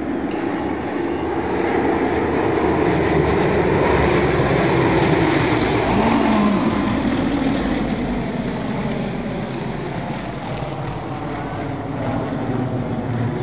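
Yak-50 aerobatic planes, with Vedeneyev M-14P nine-cylinder radial engines, flying past. The engine sound grows louder, peaks about five seconds in, then fades, with the pitch dropping as they pass.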